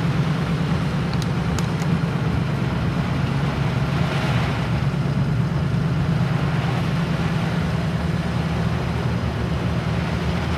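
Car engine and road noise heard from inside the cabin while driving, a steady low drone, with a brief rush of hiss about four seconds in.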